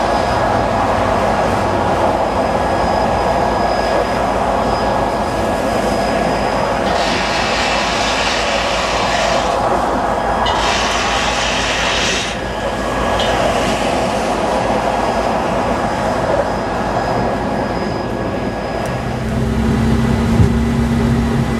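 Freight train running: a steady diesel locomotive rumble with wheel and car noise. Around the middle come two hissing bursts of about two seconds each, and a low steady hum comes in near the end.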